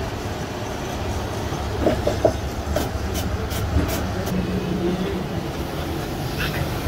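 A machine running steadily with a low rumble. There are a few knocks about two seconds in and a quick run of sharp clicks just after.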